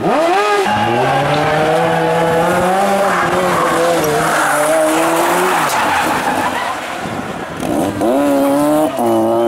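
Rally car engine running hard at high revs as the car drives through a stage. The engine note holds, eases off a little past halfway, and climbs again near the end.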